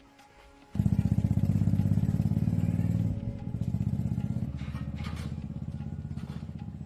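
Old tractor diesel engine starting abruptly under a second in and running with a rapid, even knock, dropping slightly in level after about three seconds.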